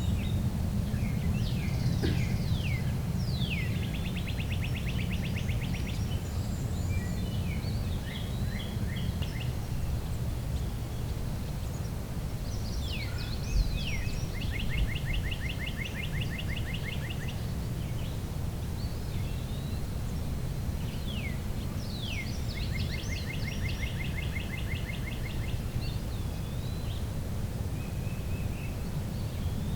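A songbird singing the same song three times, each a few quick downward-slurred whistles followed by a fast, even trill, over a steady low rumble.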